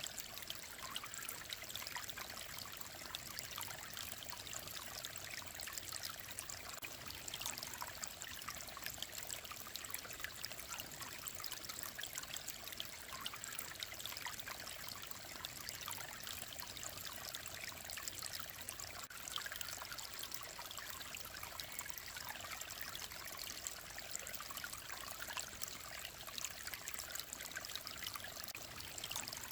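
Shallow mountain stream flowing and trickling steadily over stones, a constant bright babble.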